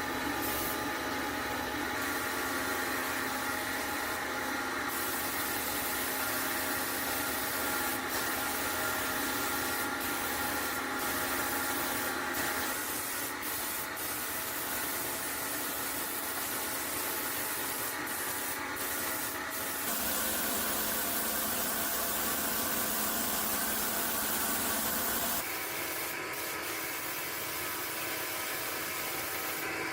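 Compressed-air paint spray gun hissing steadily as it sprays, with a steady machine hum beneath, shifting abruptly a few times.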